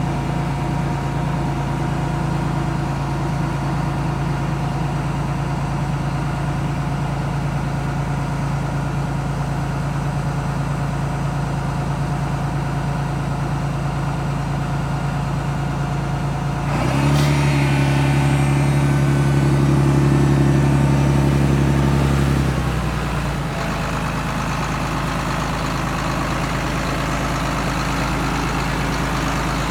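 John Deere 8410T tractor's six-cylinder diesel engine idling steadily, then revved up for about five seconds past the middle before dropping back to idle.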